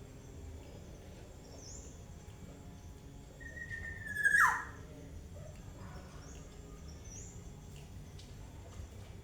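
A young black-naped oriole gives one loud call about four seconds in: a held note that ends in a sharp downward swoop. Faint short high chirps sound now and then.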